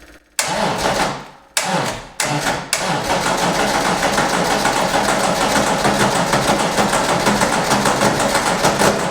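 Electric starter motor cranking the sand rail's engine: three short bursts, then one long crank of about six seconds with a rapid, even clatter, and the engine does not catch. It sounds bad, with the starter gear too coarse for the flywheel and not meshing properly.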